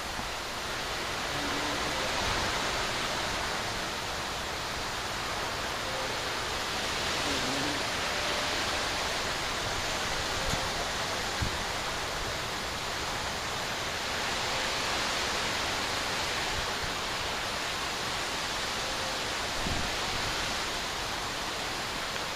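Steady rushing of water, an even wash of noise with no changes, broken only by a faint click or two.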